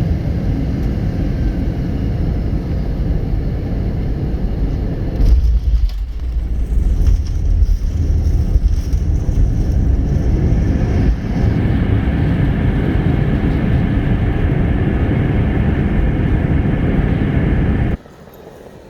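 Airliner cabin noise on landing: steady engine and air rush, then a sudden heavy rumble about five seconds in as the wheels meet the runway. From about eleven seconds a louder rushing engine sound builds as the aircraft brakes, and the sound cuts off abruptly near the end.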